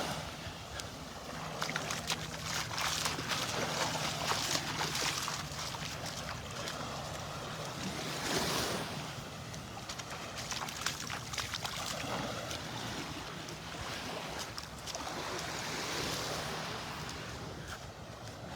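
Gulf of Mexico surf washing onto the beach, the wash swelling and fading every few seconds, with wind on the microphone. A faint low hum runs underneath and fades out about two-thirds of the way through.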